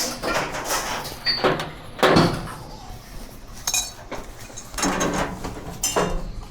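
Small metal parts and tools being handled: a series of sudden clinks and knocks, about six in all, some with a brief bright ring.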